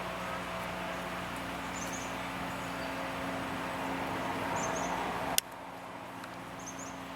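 Steady outdoor background noise with a low hum, and a small bird giving a short high double chirp every two to three seconds. A sharp click about five seconds in, after which the background abruptly drops quieter.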